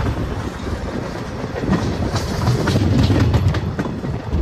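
Passenger train running along the track, heard from aboard: a steady low rumble with irregular clacks of the wheels over rail joints.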